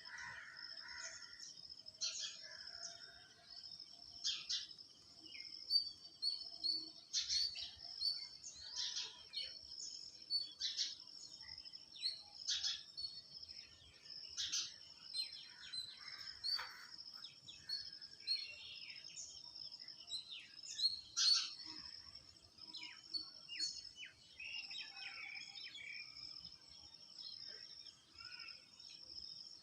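Many short, sharp bird chirps and calls at irregular intervals over a steady, high-pitched insect drone.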